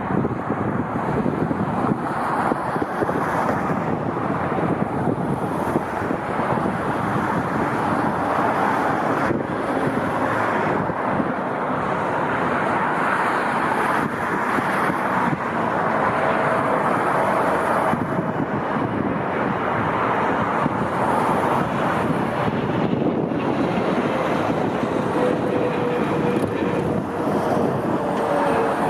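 Boeing 777 jet engines making a steady rushing roar, with wind buffeting the microphone. A faint whine drifts slowly lower in pitch near the end.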